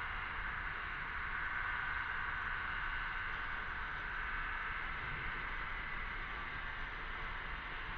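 Chorus of cicadas buzzing in a steady, unbroken drone, with a faint low rumble underneath.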